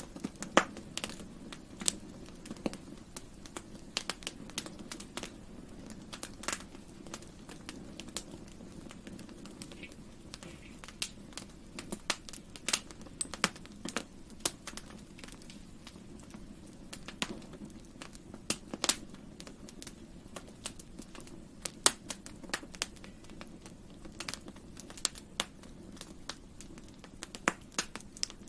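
Campfire burning: wood crackling and popping in irregular sharp snaps, several a second at times, over a steady low rumble of the flames.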